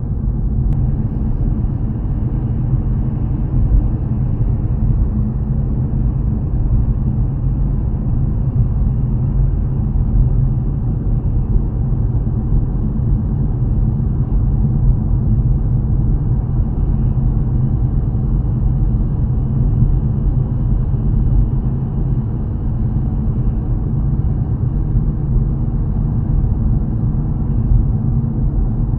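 A car driving steadily, heard from inside the cabin: a constant low rumble of engine and road noise with no change in pace.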